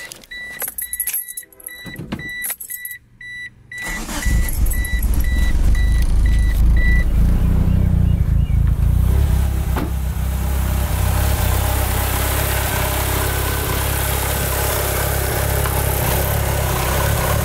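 A car's warning chime beeps evenly while the 2g Mitsubishi Eclipse's four-cylinder engine is started: it catches about four seconds in, runs a little higher at first, then settles into a steady idle. The chime stops about seven seconds in.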